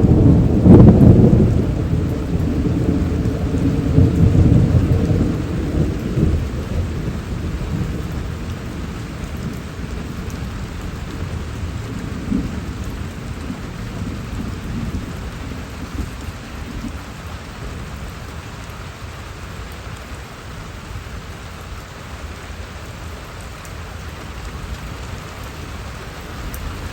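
Thunder rumbling, loudest in the first second or two and rolling away over several seconds, over steady rain falling.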